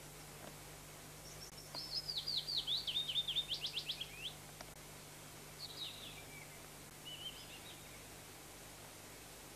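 A songbird sings one phrase of about a dozen quick down-slurred whistled notes lasting about three seconds, followed by two shorter, fainter phrases, over a faint steady hum.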